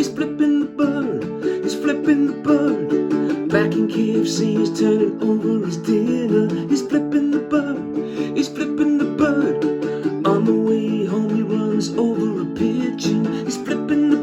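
Instrumental music: a strummed acoustic string instrument playing chords in a steady rhythm.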